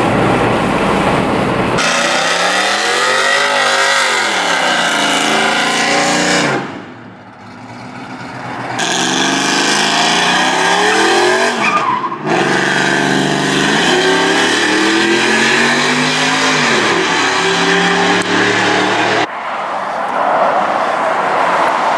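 High-performance car engines revving and accelerating hard, the engine pitch repeatedly climbing and dropping, in several short clips cut together with abrupt changes between them.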